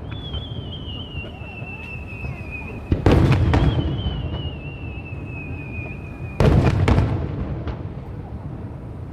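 Aerial fireworks shells bursting: two loud booms, about three seconds and six and a half seconds in, each followed by fading crackle. Between them a thin whistle slowly falls in pitch.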